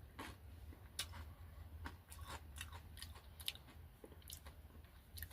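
Faint, irregular crunches of a person chewing a rolled corn tortilla chip (Takis) in the mouth.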